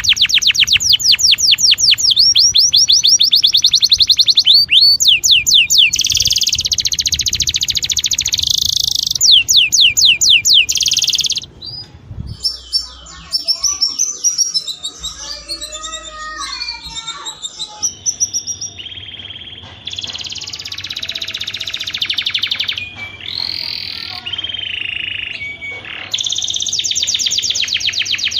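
Canary song: rapid, high trills of evenly repeated notes, breaking about halfway into a quieter passage of varied, lower warbling phrases, then back to fast trills near the end.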